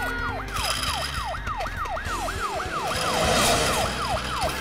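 Cartoon ambulance siren wailing in quick repeated swoops, about three a second, with a brief rushing noise about three seconds in.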